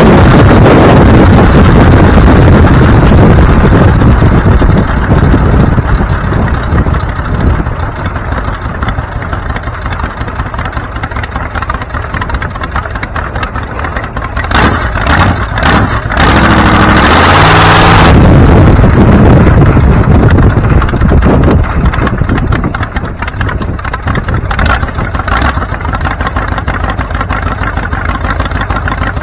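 A car engine running steadily, with a loud surge of revs about sixteen seconds in.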